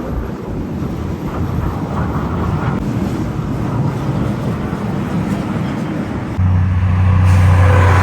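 Heavy truck approaching on a highway, tyre and engine noise building steadily. About six seconds in, a deep, steady engine note comes in and it is loudest near the end as the truck reaches the microphone.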